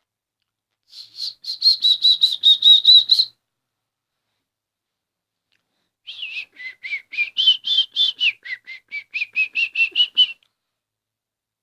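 Excited budgerigar giving two bursts of rapid repeated chirps, about five a second. The second burst is longer and wavers up and down in pitch.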